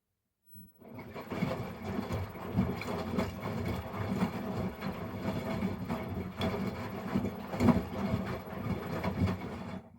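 Miele Professional PW 6065 washing machine drum turning during a rinse, with the motor humming and the load of stuffed toys tumbling with irregular thuds. It starts about half a second in and stops just before the end, as the drum pauses between turns.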